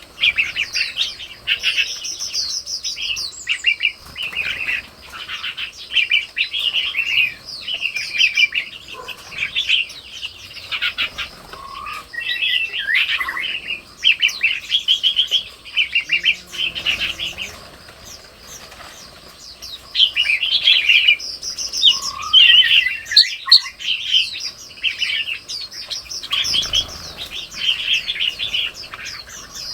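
Red-whiskered bulbuls chirping and calling in quick runs of short notes, with a lull a little past the middle. A faint steady high-pitched hum runs beneath.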